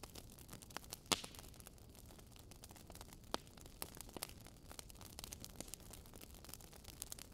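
Fire crackling in a fireplace: a soft steady hiss with scattered sharp pops and snaps, the loudest about a second in.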